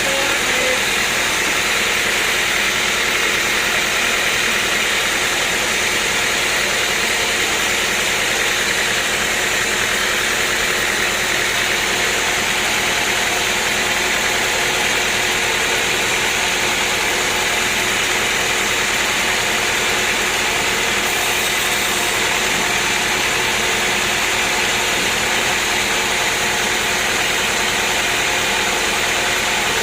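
Sawmill machinery running steadily, a continuous even engine-like noise that holds the same level throughout.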